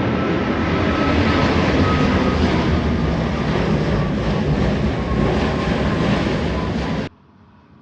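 Jet airliner on approach passing low overhead: a loud, steady engine rumble with a faint high whine, cutting off suddenly about seven seconds in.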